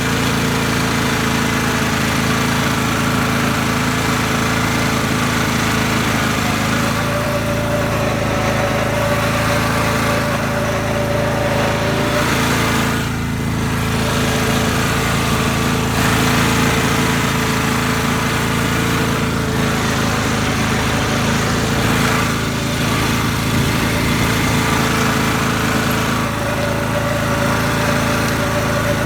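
Garden tractor's small engine running steadily at an even speed.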